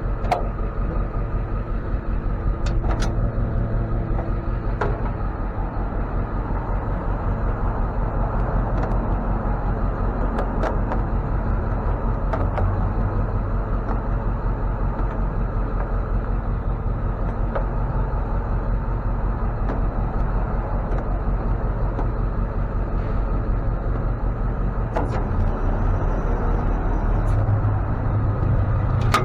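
A truck engine running steadily at a constant level, with a few faint clicks.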